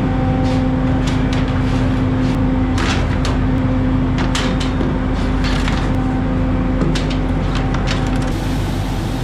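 Steady drone of a prawn trawler's engine and machinery, holding a low hum, with a dozen or so short, irregular clicks and knocks on top.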